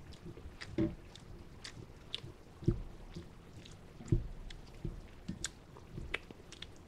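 A person chewing ramen noodles close to the microphone, with small clicks of chopsticks against the bowl and a few dull knocks.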